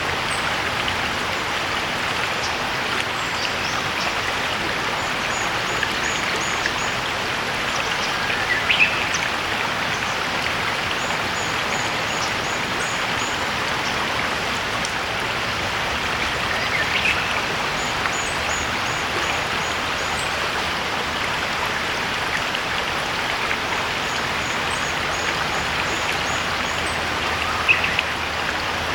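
A shallow stream babbling steadily, with a Japanese bush warbler singing its song three times, about nine seconds apart. Between the songs, another bird gives runs of short, high notes.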